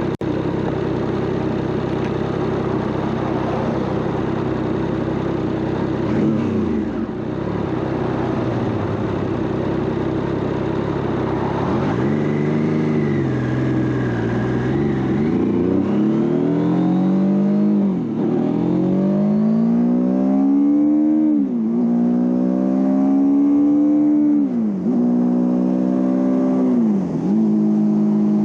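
Triumph Trident 660's inline three-cylinder engine running under way. At first its note is steady. Then it pulls up through the gears, the pitch rising under acceleration and dropping sharply at each of about four upshifts, before settling to a steady note near the end.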